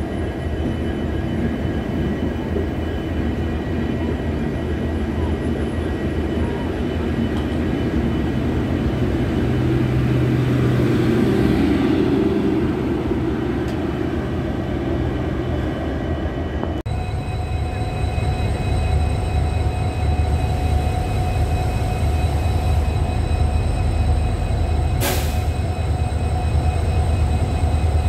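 Passenger coaches rolling past close by on the rails, with a steady rumble that swells about ten to thirteen seconds in as the generator car goes by. After an abrupt change about 17 s in, a freight train's locomotive approaches with a steady engine rumble and a few held tones, and there is one sharp click about 25 s in.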